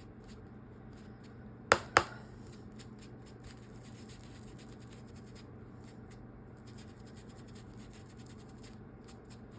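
Two sharp clicks about two seconds in, then faint, rapid scratchy rubbing as dried-out ink is dabbed onto a cloth doll's face.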